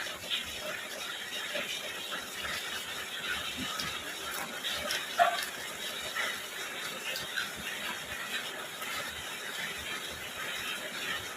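Close-up chewing and crunching of food, a run of small irregular clicks and squeaky crunches. Steady rain falls in the background.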